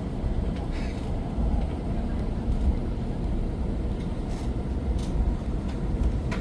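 Steady low rumble inside a Kamome Shinkansen car, with a few faint clicks.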